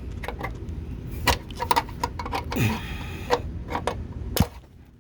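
Scattered clicks and knocks of a hand tool working a metal running-board mounting clip into place in the truck's body, with a short scrape a little past halfway.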